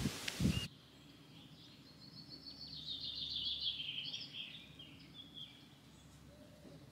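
A loud rush of outdoor noise cuts off suddenly under a second in. After that, a songbird sings a rapid twittering phrase of short, high repeated notes for about three seconds, over a quiet rural background.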